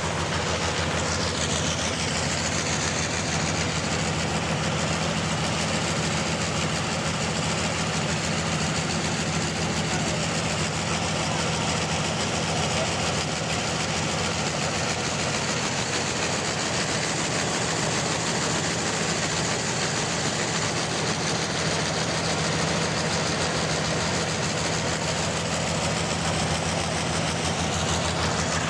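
Bandsaw sawmill running steadily, its engine holding an even note under the continuous hiss of the blade sawing through a large trembesi (rain tree) log.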